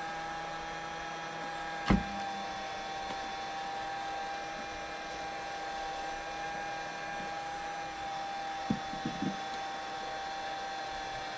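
Heat gun running steadily with a constant motor whine as it softens the screen adhesive. A sharp knock about two seconds in and a few light taps near the ninth second.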